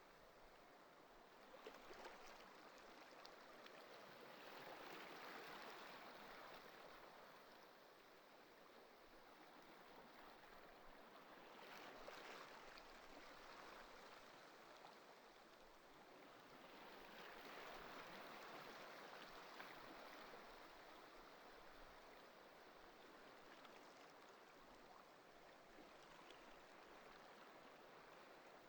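Ocean waves washing in, faint, swelling and easing off in slow surges about every six or seven seconds.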